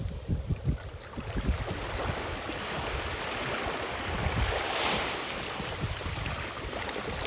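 Gentle ocean waves washing onto the shore, the surf hiss swelling to a peak about five seconds in and then easing off. Wind rumbles on the microphone in gusts throughout.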